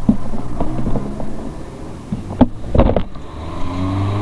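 A motor vehicle's engine running, with a few sharp knocks about two and a half seconds in and a rising engine note near the end.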